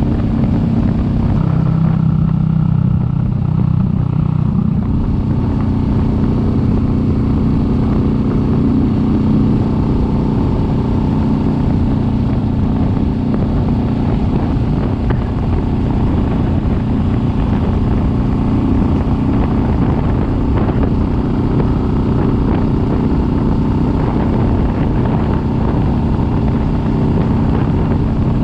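Kawasaki Vulcan S 650's parallel-twin engine running steadily under way, with wind and road noise. Its pitch dips between about one and five seconds in, then rises again.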